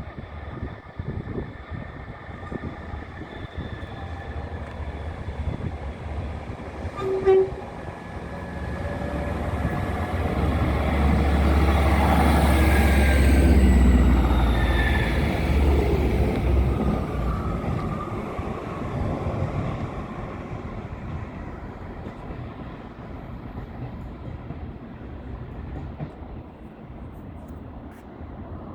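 Class 158 diesel multiple unit passing through the station: its engine rumble and wheel noise build to a peak about halfway through and then fade away, with pitch falling as it passes. A single short horn toot sounds about seven seconds in.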